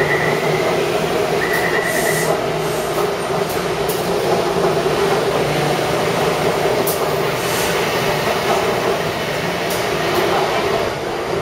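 Taipei Metro C301 subway train running steadily, with the continuous rumble and hum of wheels and motors. Two short high-pitched beeps sound in the first two seconds.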